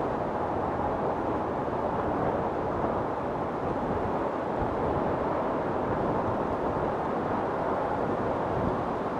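Storm wind blowing steadily, a dense even rushing with no distinct gusts, cracks or thunder.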